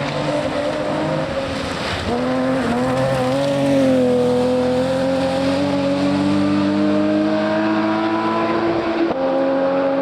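Rally car engine running hard under load, its pitch climbing slowly for several seconds, then dropping sharply near the end at a gear change before pulling again.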